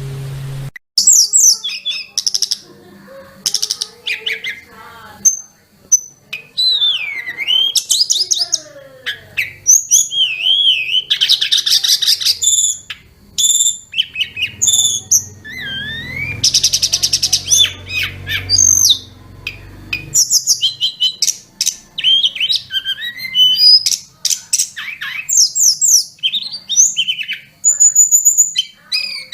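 Tledekan gunung (sulingan gunung) songbird singing a long, varied song of high whistles, fast trills and sliding notes in rapid phrases with short gaps. The song starts under a second in, when a steady hiss cuts off.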